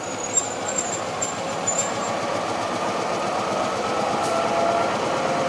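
Diesel train running, its engine sound growing gradually louder, with steady tones coming in near the end. A few short high chirps and clicks sound in the first two seconds.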